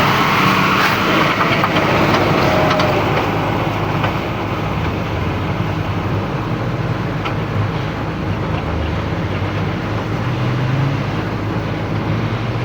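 Hino truck diesel engine running under load with a steady rushing noise over it, louder in the first few seconds and then settling.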